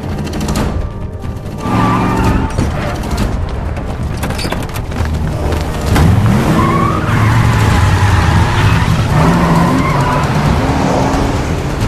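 Car chase sound: car engines revving, rising and falling in pitch, with a louder surge about halfway through and tyres squealing, under a film score.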